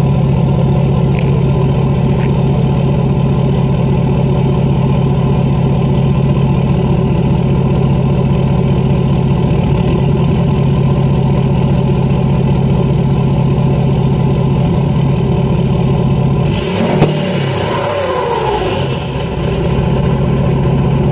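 2013 Ford F-250's 6.7 Powerstroke V8 turbo diesel, tuned and straight-piped with the DPF deleted, idling steadily at the exhaust. About sixteen seconds in the engine is revved, and a high turbo whistle falls slowly in pitch as it spools down.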